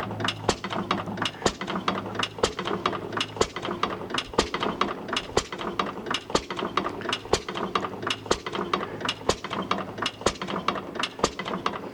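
Circa-1912 Falk 5 hp side-shaft gas engine running slowly: a steady, rapid clicking and clatter from its side-shaft mechanism, which works the valves, governor, igniter and pumps, over a low steady hum.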